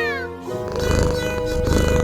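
A cartoon cat's meow trails off in a falling pitch at the start, over background music. The music then grows fuller and louder from about half a second in.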